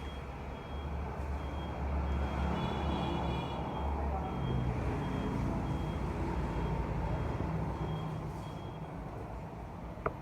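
Motor vehicle engine running with a low rumble that swells and then eases, and a short high beep repeating about twice a second. A sharp click comes just before the end.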